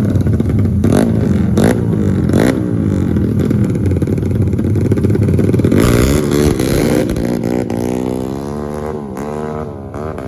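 Motorcycle engine revving hard, its pitch rising and falling, then easing off to run lower and quieter about two-thirds of the way in.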